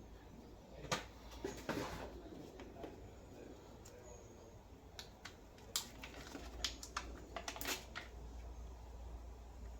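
Irregular light clicks, taps and short rustles of sound-deadening sheet being handled and pressed into place by hand, with a cluster of sharper clicks about a second in and another about six to eight seconds in, over a low steady hum.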